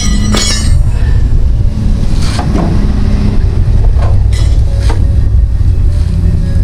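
Tracked mud buggy running, a loud steady low rumble with several sharp metallic clanks and squeals from the running gear.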